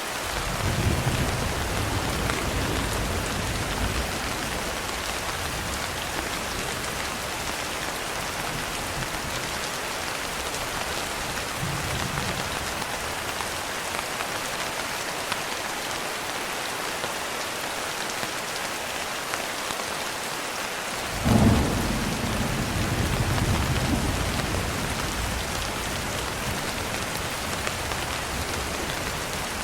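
Steady rain with thunder: a low rumble in the first few seconds, a faint one around the middle, then a sharp clap about two-thirds through that rolls on for a few seconds.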